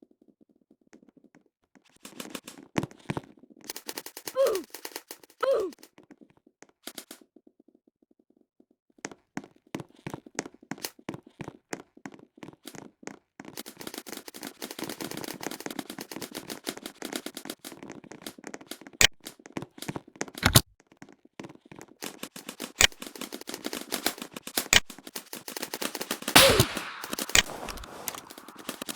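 Airsoft guns firing: sharp pops, single shots at first, then dense runs of rapid shots through the second half, with a few brief shouts.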